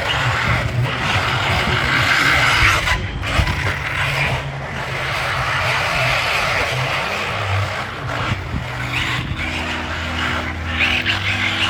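Radio-controlled electric car being driven, its motor running and its tyres scrabbling over the ground.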